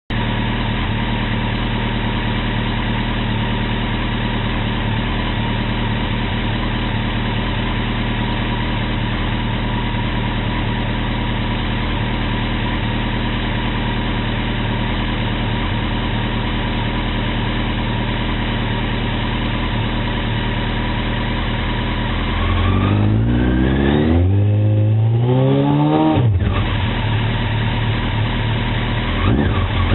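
Honda 919's inline-four engine idling steadily through a CBR900RR exhaust with a Scorpion Street Extreme muffler. About 22 seconds in, the revs climb for about four seconds, then drop suddenly back to idle, with a quick blip near the end.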